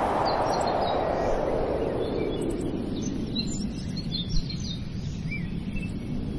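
Birds chirping, many short high calls, over a steady low rumble of background noise that eases in the middle and swells again near the end.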